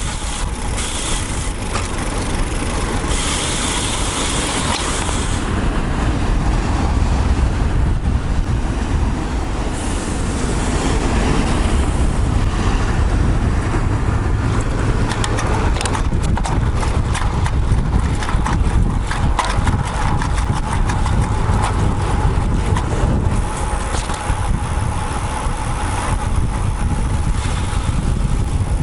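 Wind buffeting and road rumble on a bike-mounted action camera while riding a road bike, with many small clicks and rattles through the second two-thirds.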